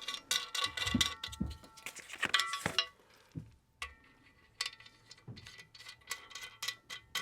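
Metal kayak-rack parts clinking and tapping as small feet are screwed onto the rack's back support legs: a run of sharp clicks and clinks, some ringing briefly, with a short quiet gap midway.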